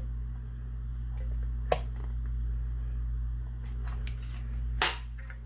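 Two sharp metallic clicks, about three seconds apart, from working the action of a side-by-side shotgun while opening it to cock the hammers; the second is louder with a dull knock. A steady low hum runs underneath.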